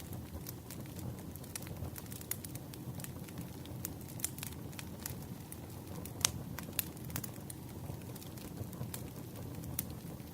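Campfire crackling: a steady low rumble of burning wood with frequent sharp pops and snaps scattered throughout, the loudest snap about six seconds in.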